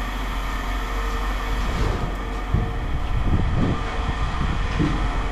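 A steady low mechanical rumble, like a running engine or machine, with some irregular rattling in the middle.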